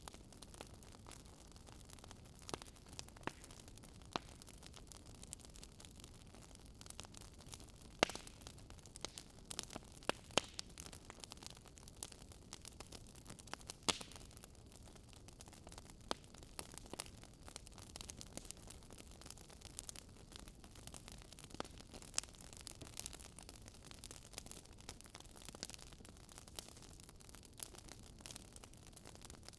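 Wood fire crackling in a fireplace: irregular sharp pops and snaps, a few louder ones, over a faint steady low rumble.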